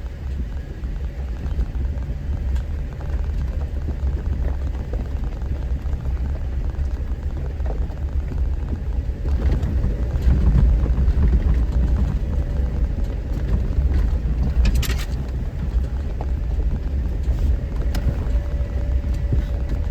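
Off-road vehicle engine running at low speed while crawling over a rough trail, a heavy steady rumble that swells about halfway through, with a few sharp knocks near the three-quarter mark.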